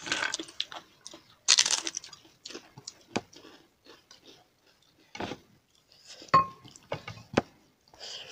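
Close-miked eating: irregular crunching bites and chewing of crunchy food, the loudest crunch about a second and a half in, with a few sharp clicks scattered through.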